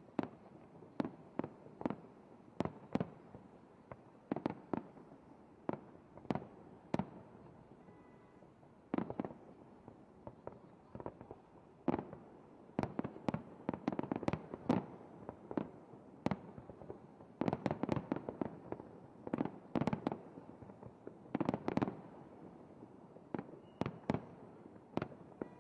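Aerial fireworks shells bursting in an irregular string of sharp bangs. The bangs come thickest in two clusters, around the middle and again toward the end.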